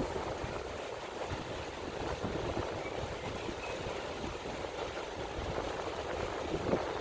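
Wind buffeting the microphone with irregular low rumbles over a steady rushing noise.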